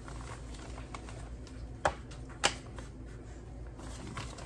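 Kitchen handling noises: faint rustling and small ticks over a steady low hum, with two sharp clacks about half a second apart near the middle.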